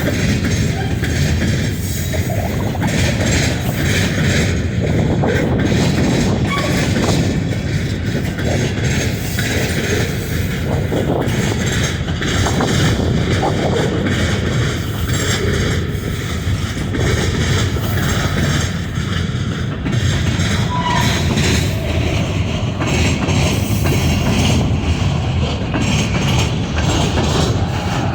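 A train rolling past, a steady rumble and rattle of cars and wheels on the rails.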